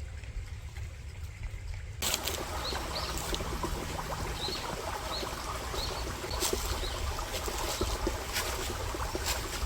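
Water trickling steadily, starting about two seconds in, with a small bird's short rising chirps repeating over it and a low rumble underneath.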